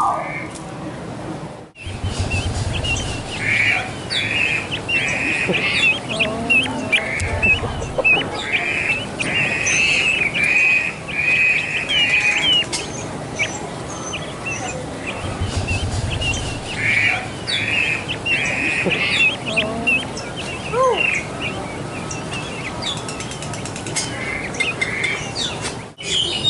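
Aviary birds calling and chirping: many short chirps and tweets, with one bird giving runs of repeated calls, about one and a half a second.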